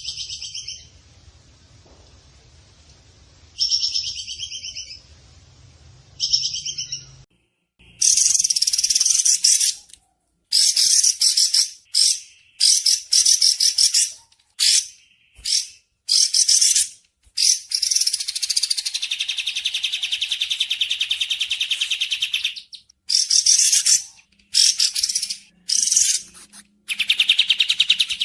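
Recorded songbird calls, as used in a bird-song training track. There are short repeated calls at first, then, after a brief silence about seven seconds in, a different recording of long, fast trilled phrases with short gaps between them.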